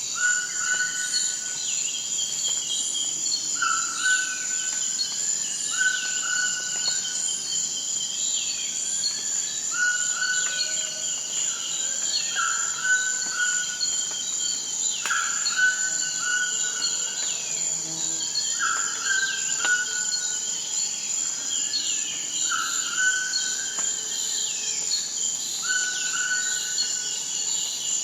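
Forest ambience: a steady high-pitched insect drone, with birds calling over it and one short call repeating about every one to two seconds.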